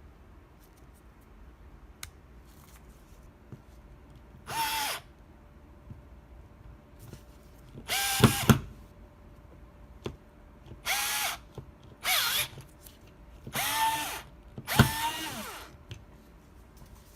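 Bosch GO 3.6 V cordless screwdriver running in six short bursts, each under a second, its motor whine dropping in pitch as each burst stops. Two sharp clicks come during the second burst.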